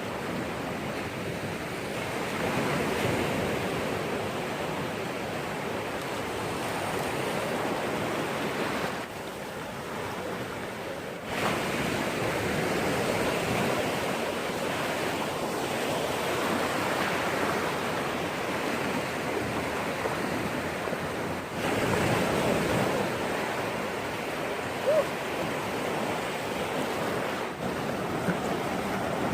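Sea waves breaking and washing up the shore in a steady wash of surf, swelling louder as new waves come in.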